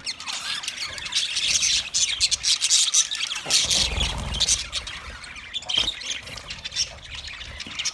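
Budgerigars chattering, with quick chirps and scratchy squawks that thin out near the end.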